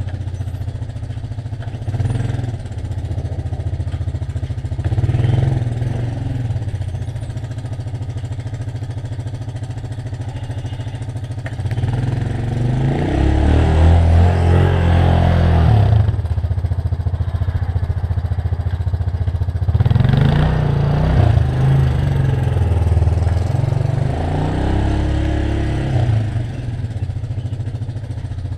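An engine running steadily, its pitch and loudness swelling and falling back several times, most strongly in two long stretches in the middle and latter part.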